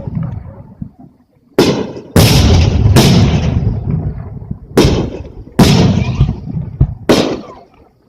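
Fireworks bursting at a fireworks display: about six sharp booms in quick succession, each trailing off in a long rumbling echo.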